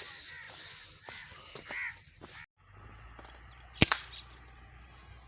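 Crows cawing in short calls, then, after a brief cut in the sound, a single sharp crack of an air rifle shot.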